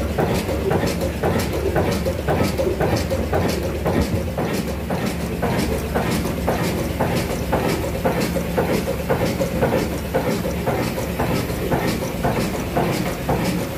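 Old diesel engine running steadily at slow speed, with an even knock about two to three times a second over a steady low hum.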